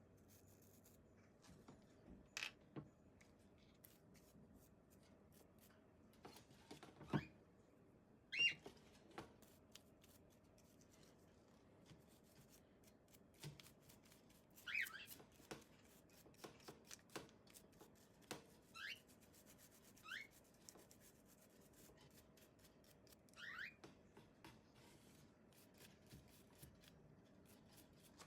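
Faint clicks, taps and rubbing from hands and small tools working on a hair dryer's plastic parts. A few short rising chirps come now and then, the loudest about eight seconds in.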